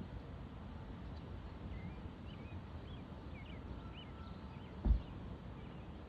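Faint bird chirps, a quick run of short high calls between about two and four seconds in, over a steady low rumble, with one sudden thump near the end.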